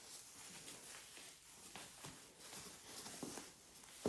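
Faint, irregular scuffing footsteps over a low hiss, as a pony is led around in a circle.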